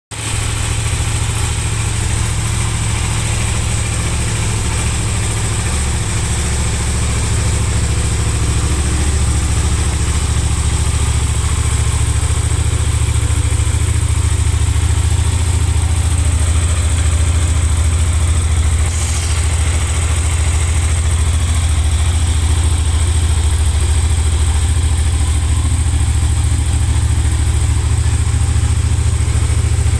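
Yamaha TDM900's parallel-twin engine idling steadily.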